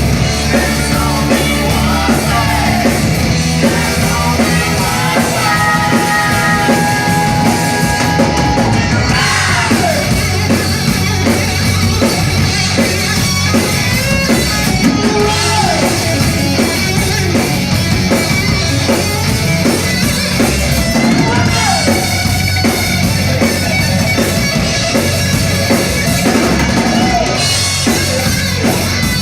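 Rock band playing loud rock music, with drum kit and a sung, partly shouted lead vocal.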